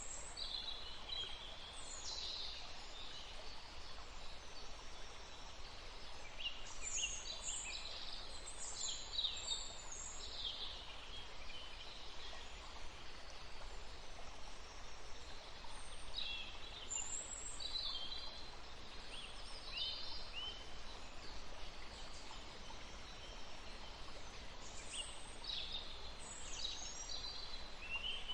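Songbirds chirping in bunches of quick, high-pitched notes, with gaps of a few seconds between bunches, over a steady outdoor background hiss.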